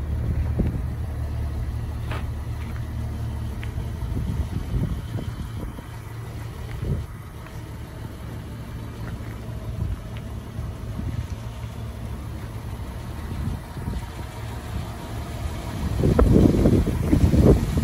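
Low steady rumble of a 1991 Jeep Cherokee's 4.0-litre inline-six idling, strongest at first and then fainter. Wind buffets the microphone, harder from near the end.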